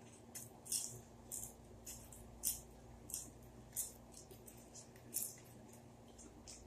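A person chewing crunchy ghost pepper chips: a steady run of crisp crunches, about two a second.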